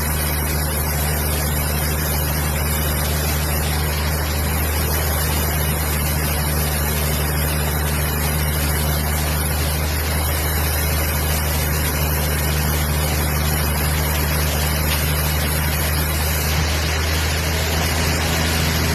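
A motor-driven wood-cutting machine running steadily: an even, unchanging low engine hum with a dense noise over it.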